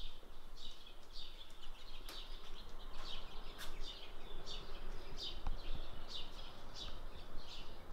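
A small bird chirping over and over, short falling notes about two a second, over a faint low background rumble.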